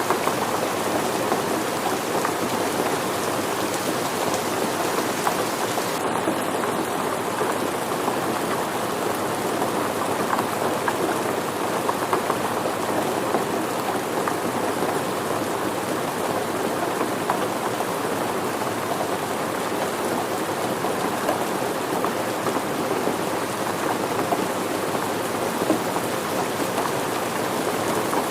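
Steady rain falling, a dense even wash of countless fine drops.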